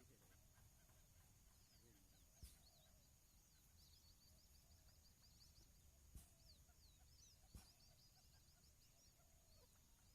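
Near silence with faint, high bird chirps, some in quick runs, and three soft clicks.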